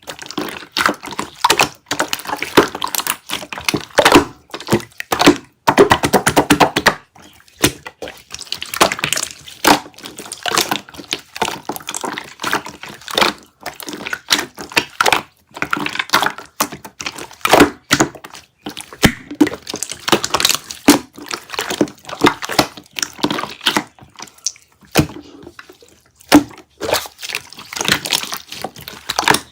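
Purple pudding-textured slime being squished and pressed by hand, giving a steady stream of irregular sticky clicks and wet pops, with a couple of brief pauses.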